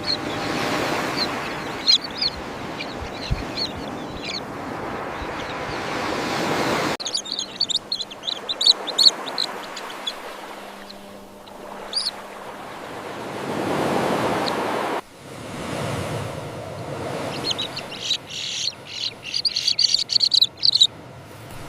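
Common terns calling in a colony: many short, sharp, high calls in clusters. Underneath is a rushing background noise that cuts off and changes abruptly twice.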